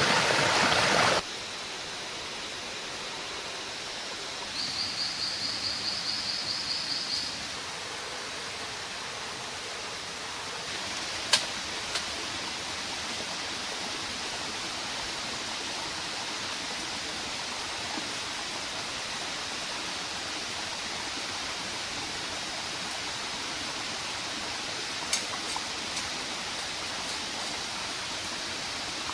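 Steady rushing of a flowing stream in rainforest ambience. A louder rush cuts off suddenly about a second in. A high, pulsing call of about four pulses a second rises above it for a few seconds near the start, and a few sharp clicks come later.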